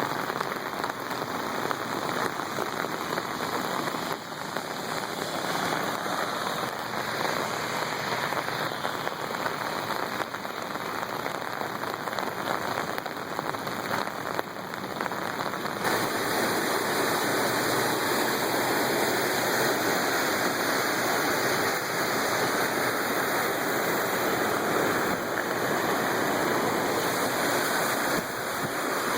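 Steady hiss of water, growing louder and smoother about halfway through.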